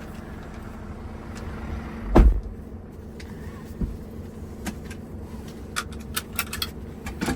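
Scania R660's V8 diesel engine idling steadily. A single heavy thump about two seconds in, then several short light clicks.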